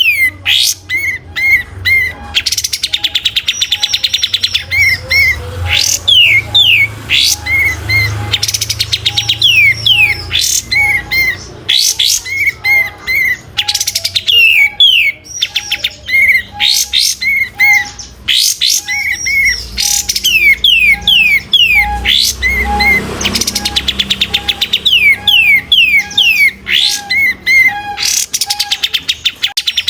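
Kapas tembak bird singing continuously and rapidly, a dense run of quick downward-sweeping whistled notes and fast trills with hardly a pause. A fainter lower note repeats evenly about twice a second underneath, with a low hum at times.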